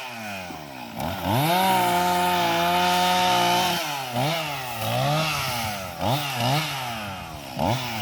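Chainsaw engine revved up to full throttle and held for a few seconds, then throttled down and up again about four times in quick succession before revving and holding again near the end.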